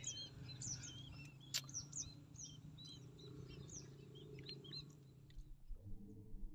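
Many small birds chirping in quick short calls over a faint low hum, with one sharp click about a second and a half in. The birdsong stops shortly before the end.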